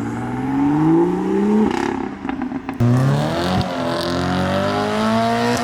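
Car engine accelerating away, its pitch rising for about a second and a half. A second climb begins from a lower pitch about three seconds in and rises slowly.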